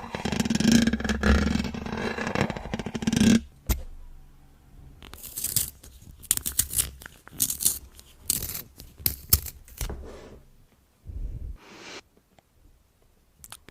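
Lip makeup handled and applied close to the microphone: a few seconds of dense scraping and rubbing, a sharp click, then a run of short strokes and taps, with another click near the end.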